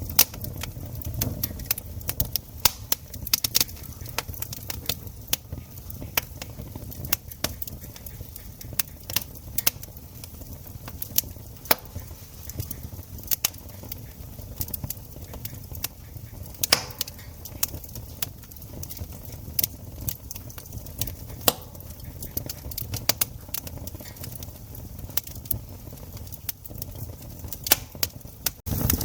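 Wood campfire crackling, with irregular sharp snaps and pops, some much louder than others, over a low steady rumble.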